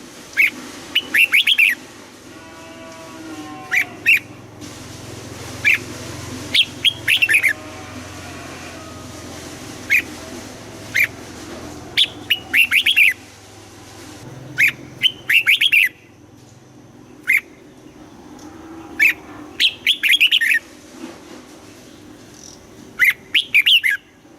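Red-whiskered bulbul singing: short phrases of a few quick, bright chirping notes, repeated every second or two.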